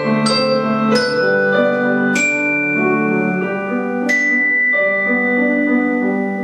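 Mallet percussion instrument playing a melody of separate struck, ringing notes over held lower chords.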